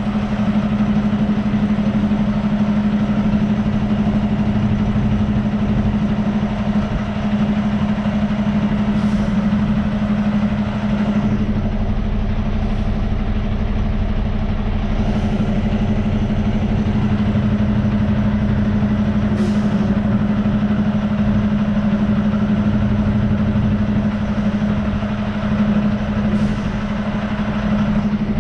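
Semi truck's diesel engine running steadily with a strong, even hum.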